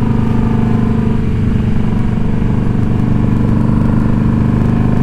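Indian Scout Bobber's V-twin engine and exhaust running at steady revs, a constant low drone with no revving.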